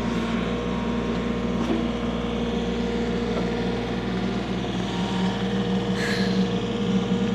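Engine of a bucket-equipped machine running steadily at one even pitch.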